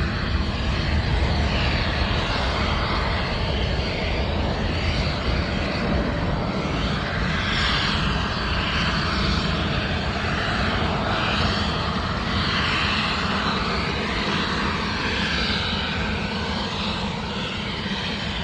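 Boeing 777 twin-jet engines at takeoff thrust: a steady, loud jet rumble and hiss with a slowly shifting tone, easing slightly near the end.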